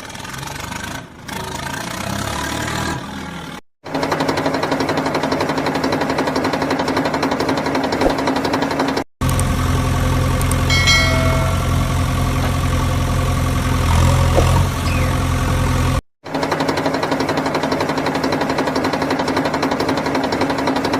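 Tractor engine running steadily in several separate clips, each cut off abruptly, with a louder, deeper-running stretch in the middle.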